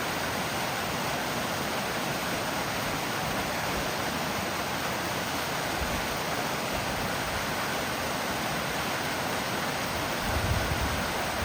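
Small mountain waterfall pouring steadily: an even, unbroken rush of falling water, with a brief low rumble near the end.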